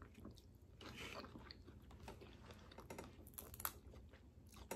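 A person chewing and biting boiled crawfish close to the microphone: faint, wet mouth sounds with scattered small clicks and crunches, a sharper click a little past three seconds in.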